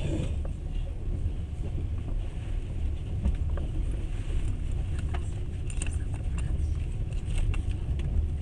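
Passenger train running along the track, heard from inside the carriage: a steady low rumble from the wheels and rails, with scattered light clicks and rattles, mostly in the second half.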